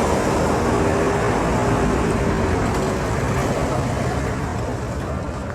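Engine of a passing motor vehicle on the road, loud at first and fading away as it moves off.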